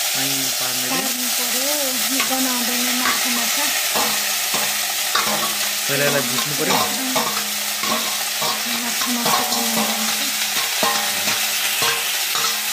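Dried small fish sizzling as they fry in hot oil in a kadai, with a metal spatula stirring and scraping against the pan in frequent short clicks.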